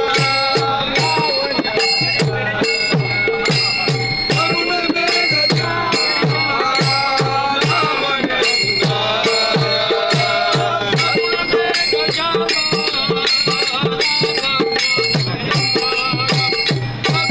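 Devotional abhang sung to a hand drum and small hand cymbals. The drum keeps a quick, steady beat, with strokes that bend in pitch, and the cymbals click sharply along with it.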